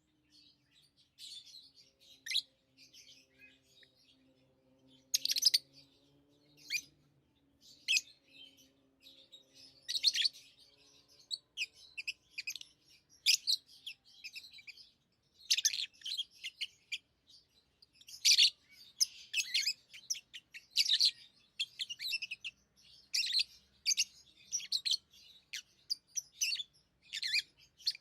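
Pet lovebirds chirping: short, sharp, high chirps in bursts, scattered at first and coming thick and fast in the second half.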